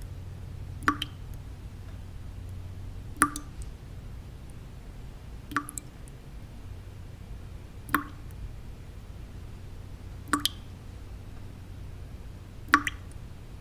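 Water drops falling one at a time into water, each a sharp plop with a short ringing tone, evenly spaced about every two and a half seconds (six in all). A steady low noise bed runs beneath them.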